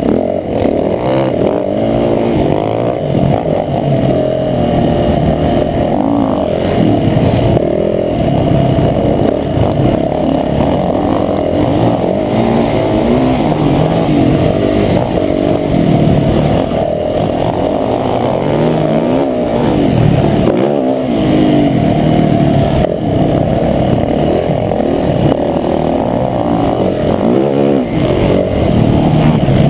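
Motocross bike engine revving hard and easing off again and again, its pitch rising and falling every second or two. It sounds muffled, as through a GoPro's housing.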